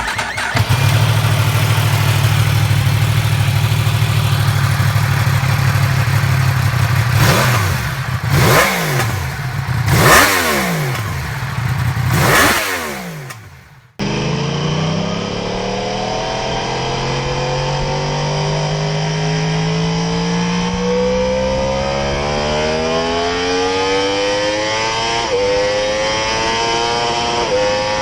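Inline-four superbike engine idling, then revved sharply four times. After a cut, a superbike engine pulls with its pitch climbing steadily, broken twice by brief dips near the end.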